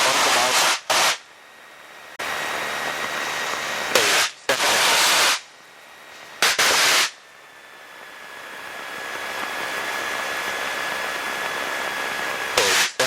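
Aircraft VHF radio heard through the headset: several sudden bursts of static hiss, as if transmissions are keyed with no words coming through. Between the bursts a quieter hiss swells slowly, carrying a faint steady whine.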